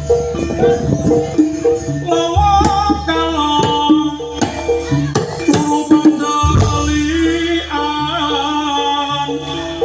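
Live Javanese barongan accompaniment music: a repeating pattern of pitched percussion notes over drums, with deep low tones coming in about two and six and a half seconds in and a wavering melody above from about two seconds.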